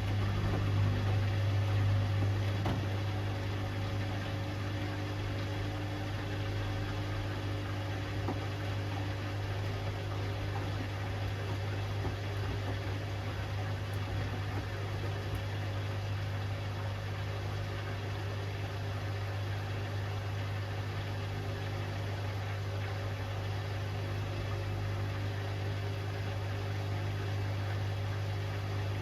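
Hoover Axi 10 kg front-loading washing machine running mid-cycle with a steady low hum.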